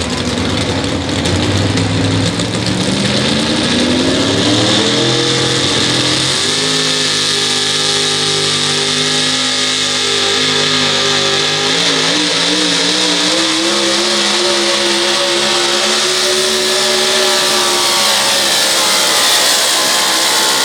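Four-wheel-drive pulling truck's engine at full throttle on a pull. The revs climb over the first few seconds, then hold high and steady, wavering briefly about halfway through.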